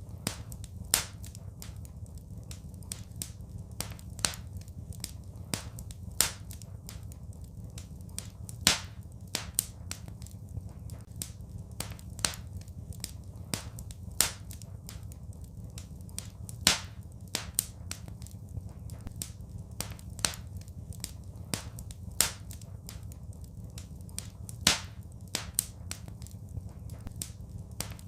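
Fire in a fireplace crackling: irregular sharp pops and snaps several times a second, with a louder pop every couple of seconds, over a low steady rumble.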